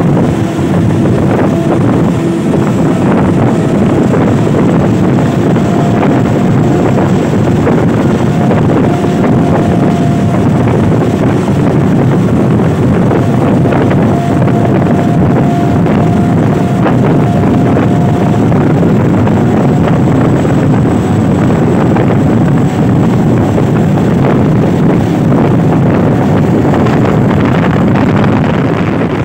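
Riding in a moving passenger train carriage by an open window: a steady rush of wind on the microphone over the running rumble and rattle of the carriage on the rails. Faint clicks and a thin squeal come and go over it.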